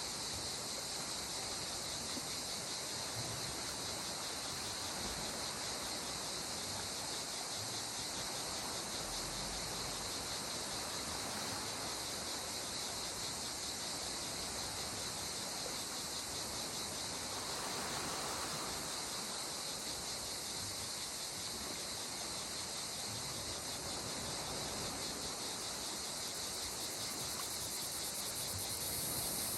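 Steady, high-pitched chorus of insects, crickets or cicadas, pulsing fast and without pause over a faint wash of sea water, which swells a little about two-thirds of the way in.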